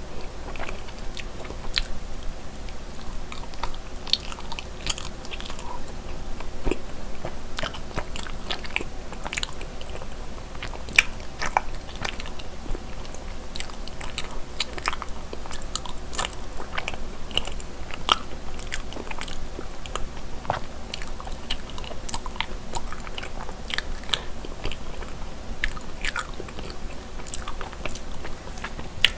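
Chewing and biting of soft cream cheese-filled mochi rice cakes, with many small clicks of the mouth and sticky dough scattered throughout.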